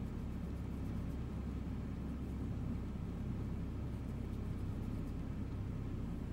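Steady low rumble of a car's idling engine, heard from inside the cabin, with a few faint high ticks about a second in and again a little past four seconds.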